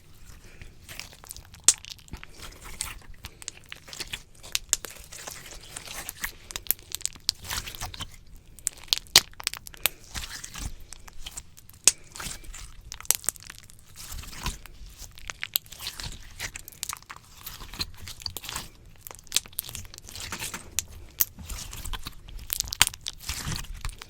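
Slime squished and pulled on a microphone: a dense, irregular run of sticky crackles and small pops.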